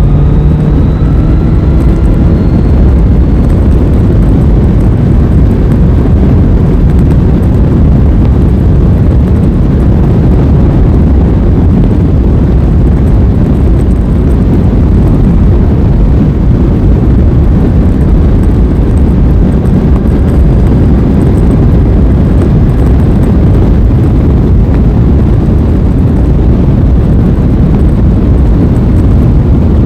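Aprilia Tuono 660's parallel-twin engine revving up through the gears in the first few seconds, then a steady rush of wind noise on the microphone over the engine while riding at speed.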